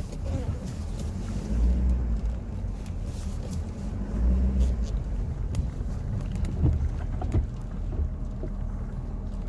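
Diesel engine of a Ford F-250 pickup (6.7 L Power Stroke V8 turbodiesel) running as the plow truck maneuvers, a low rumble that swells louder twice, with a few faint knocks near the end.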